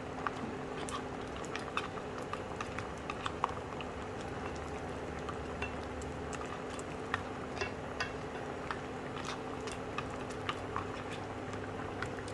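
Pot of crab in coconut-milk gravy simmering: a steady bubbling hiss with many small, irregular clicks and pops.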